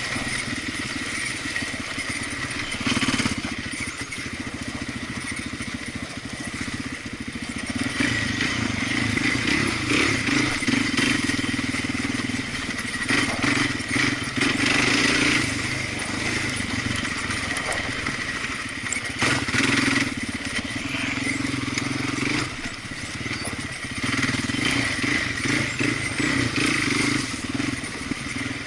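Off-road vehicle engine running while being ridden, its pitch rising and falling every few seconds as the throttle opens and closes, with occasional sharp rattles.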